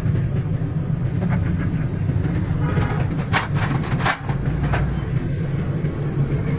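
A steady low mechanical rumble, with a few sharp clicks about three to five seconds in.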